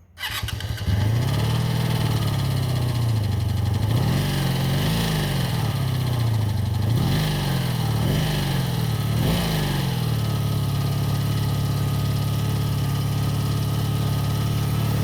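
1985 Honda V30 Magna's 500cc V4 engine starting from cold, catching almost at once, its revs rising and falling several times before settling into a steady idle about ten seconds in.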